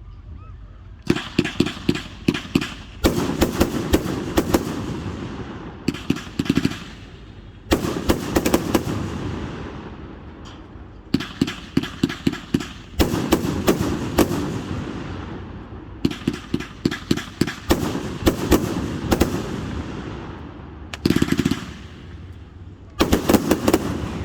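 Fireworks going off in rapid volleys of sharp bangs and crackles, about nine bursts, each trailing off into a fading crackle before the next.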